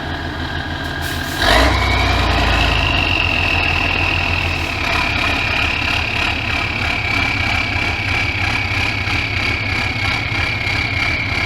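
Competition truck's engine running, then suddenly louder about a second and a half in as it goes under load, with a high whine that rises and then holds steady.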